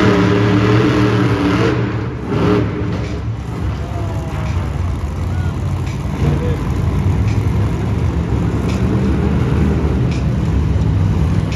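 Monster truck engine running loud and steady, easing off a little about two seconds in and picking up again about six seconds in.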